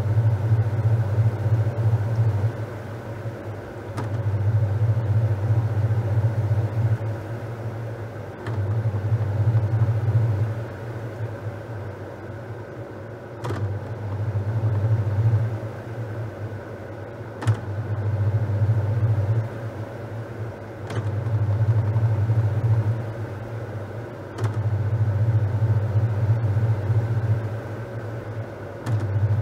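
Top-loading washing machine in its wash cycle: the drive motor hums in bursts of two to three seconds with short pauses between, as the pulsator turns the towels one way and then the other. A few faint clicks come in along the way.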